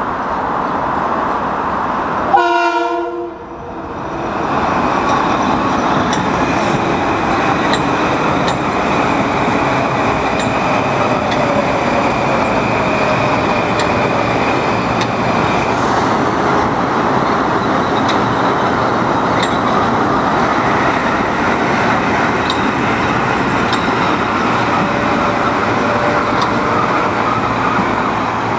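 Metro-North commuter train passing, a steady rush of wheel and rail noise with a faint whine over it. A short horn sound comes about two seconds in.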